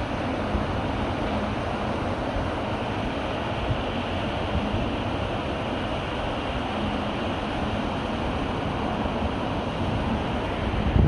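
Sea surf washing onto a beach as a steady, continuous rush of noise, with wind buffeting the microphone.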